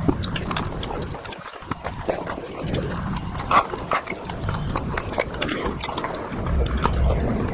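Close-miked eating sounds: chewing and wet mouth smacks, heard as a run of irregular sharp clicks over a low chewing rumble.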